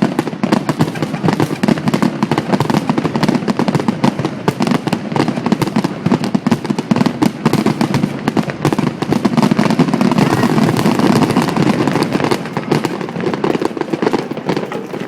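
Fireworks display in a rapid barrage: a dense, continuous stream of shell bursts and crackles, many every second.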